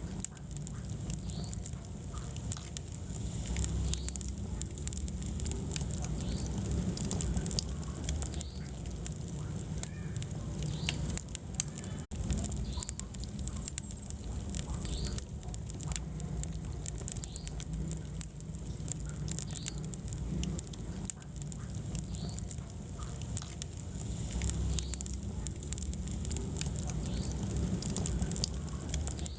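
Wood fire burning in a fireplace: a steady low rumble of flames with frequent irregular crackles and small pops of the burning logs.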